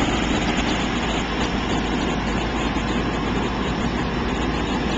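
Fire engine's engine running steadily while the truck pumps out water jets: a constant low rumble under an even hiss, with no change in pitch.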